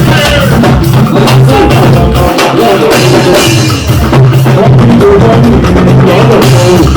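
Loud band music with a drum kit, a steady bass line and percussion.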